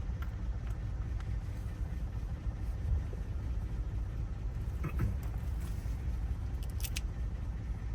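Steady low rumble with a few light clicks and taps from small lock parts being handled while a lock cylinder is rekeyed; the clearest clicks come about five and seven seconds in.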